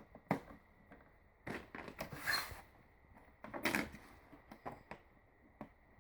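Scattered clicks, knocks and short rustles of objects being handled, with a faint steady high tone behind them.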